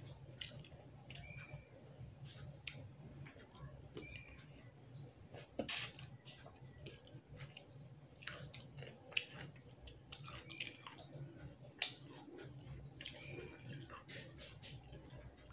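Someone eating fish curry and rice by hand: soft wet chewing with irregular mouth clicks and smacks, over a faint steady low hum.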